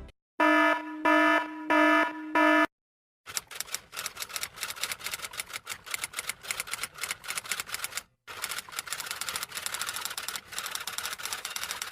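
An alarm sound effect: four short buzzing beeps in quick succession. About three seconds in, a typewriter starts clattering with rapid key strikes, pausing briefly about eight seconds in, then typing on to the end.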